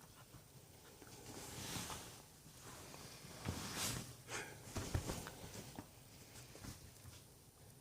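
Maltese dog snuffling and sniffing in a few short bursts, with a few soft thumps.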